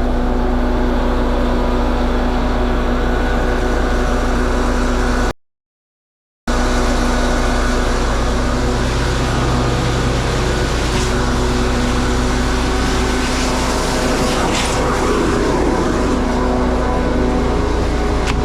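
Scania vacuum truck running its vacuum pump while sucking liquid out of a tank: a loud, steady engine-and-pump drone with a constant hum. The sound cuts out completely for about a second some five seconds in.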